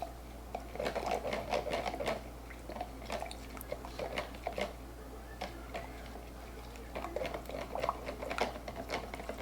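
A spoon stirring cornstarch into a sauce in a bowl: quick, irregular clicks and scrapes of the spoon against the bowl, easing off for a couple of seconds in the middle.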